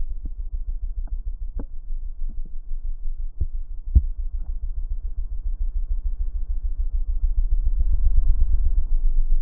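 Motorcycle engine idling with a low, even throb, with a few sharp knocks in the first half. The engine grows louder near the end.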